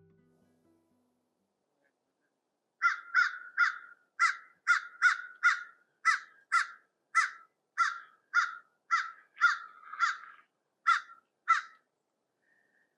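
Bird calling overhead: a run of about eighteen short, repeated calls, about two a second, starting about three seconds in.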